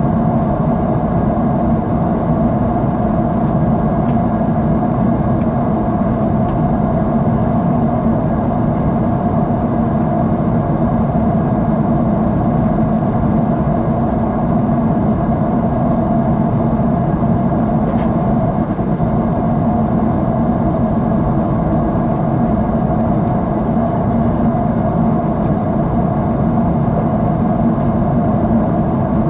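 Steady drone of a jet airliner's engines heard inside the passenger cabin, an even, unbroken rumble with no change in pitch or level.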